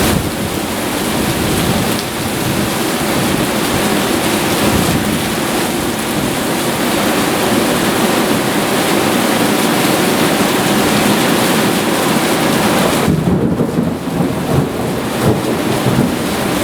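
Heavy rain pouring steadily in a thunderstorm, with thunder rumbling under it. About three-quarters of the way through, the high hiss of the rain thins and the sound becomes uneven.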